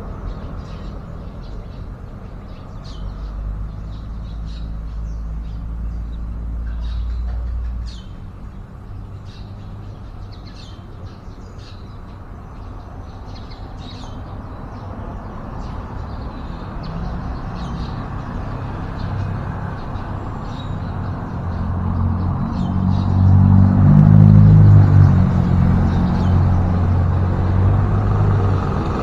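Road traffic outside, with a vehicle engine rumbling past that is loudest about three-quarters of the way through. Over it come frequent short, high bird chirps.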